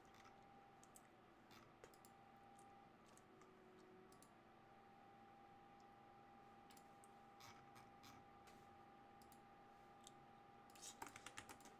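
Near silence broken by faint, scattered clicks of a computer mouse and keyboard, with a quick run of clicks near the end.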